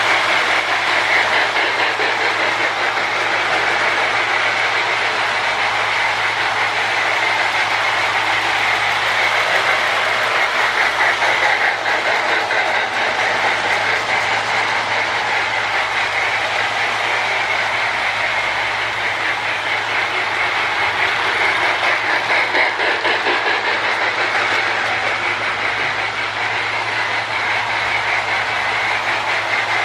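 Toy electric train running on its track, the Marx Sound-O-Power tender putting out its chuffing steam-engine sound along with the locomotive's motor and wheels, over a steady low hum. The tenders have been repaired and chuff properly.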